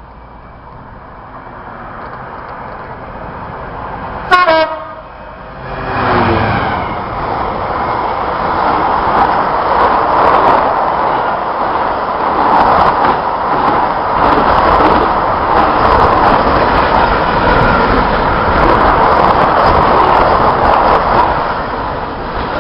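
EWS class 66 diesel-electric locomotive (two-stroke EMD V12) sounding a short horn toot about four seconds in, then running through the platform with its freight train in a loud, steady rumble and rail clatter that eases near the end.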